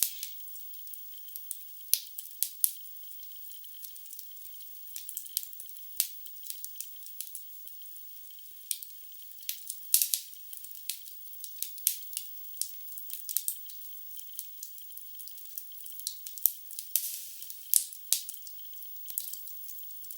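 Wood fire in a fireplace crackling: irregular sharp pops and snaps over a soft hiss, with a few louder pops among them. It sounds thin, with no low end.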